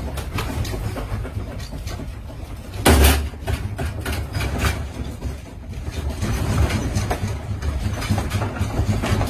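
Earthquake shaking: a steady low rumble with constant rattling and clattering of loose objects, and one loud crash about three seconds in.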